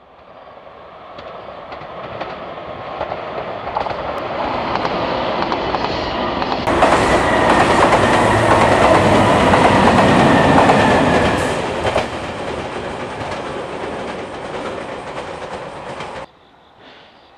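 JR Shikoku limited express train running through a small station without stopping, with the rumble and clatter of its wheels on the rails. The sound builds, is loudest for several seconds in the middle, eases off, and cuts off abruptly near the end.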